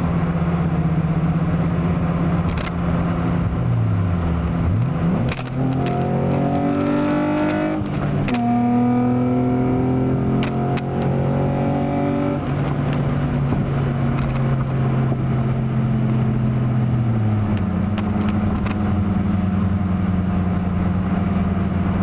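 2004 Nissan Maxima's V6 with a modified exhaust (headers, N1 cat-back, Magnaflow mufflers and resonator), heard from inside the cabin. The revs fall about four seconds in, then the engine pulls up in pitch twice, with a break around eight seconds in. It then settles to a steady cruise, its pitch changing once more near the end. The resonator and extra cat were fitted to cure exhaust drone and rasp.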